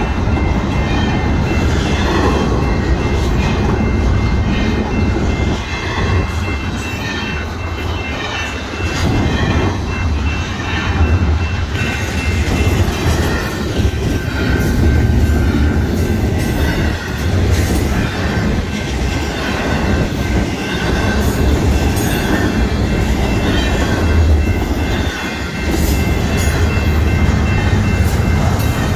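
Double-stack intermodal freight train rolling steadily past at close range: the loud, continuous rumble and clatter of the well cars' steel wheels over the rails, with a grade-crossing bell ringing on top.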